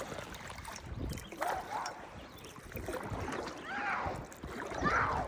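Water gurgling and splashing around a kayak while paddling, with a few faint, distant voice-like calls over it.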